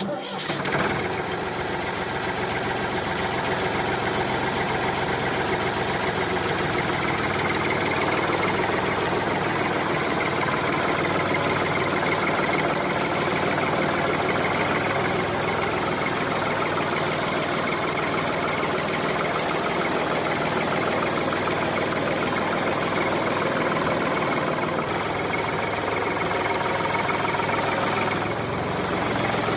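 Small engine of a mini tractor running steadily, with a slight change in its sound about a third of the way in and again near the end.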